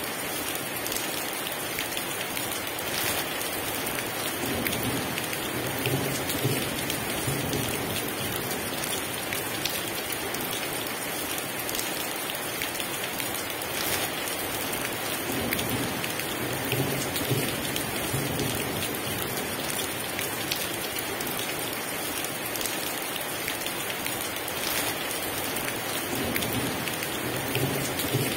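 Heavy rain pouring steadily, with low rolls of distant thunder rising and fading about three times.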